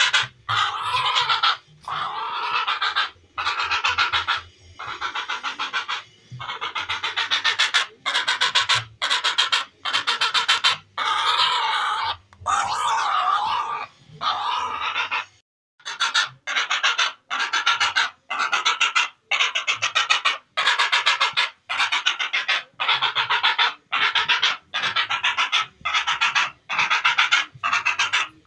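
Heron calls: harsh, rasping croaks made of fast pulses, repeated over and over in bursts of about a second with short gaps between them.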